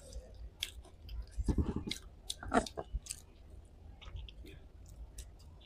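Close-miked chewing of dahi bhalla, lentil dumplings in yogurt: a run of mouth clicks and smacks, busiest between about one and a half and three seconds in.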